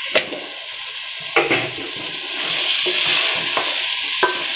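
Potato wedges tipped into a steel pot of radish pods frying in masala and stirred with a wooden spoon: sizzling that grows louder about halfway through, with a few sharp knocks against the pot.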